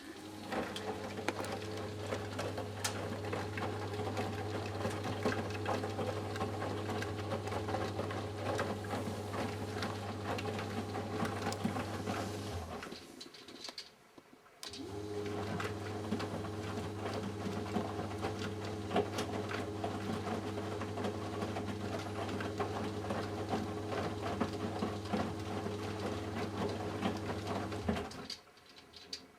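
Eudora Sparmeister 702 washing machine in its main wash: the drum motor hums as it turns the drum for about thirteen seconds, with the laundry tumbling. It stops for a couple of seconds, turns again for about thirteen seconds, and stops near the end, the usual start-stop rhythm of a reversing wash drum.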